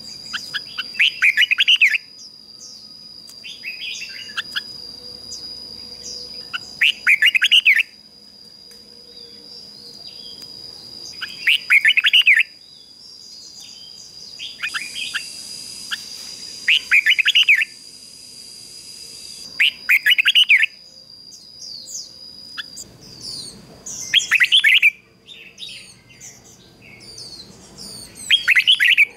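A red-whiskered bulbul decoy singing short, loud, bright song phrases every three to four seconds, with softer chirps between them. A thin, steady, high-pitched whine runs behind the song and stops a few seconds before the end.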